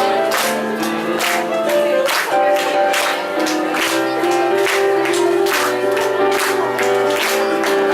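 A song played by a children's ukulele group: strummed strokes on a steady beat, about two a second, under held melody notes.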